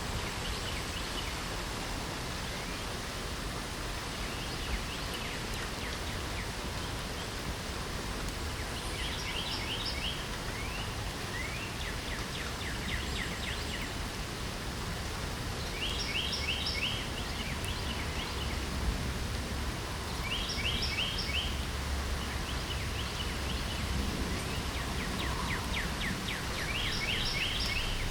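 Steady rain hiss, with a songbird singing short phrases of rapid repeated notes every few seconds from about a third of the way in.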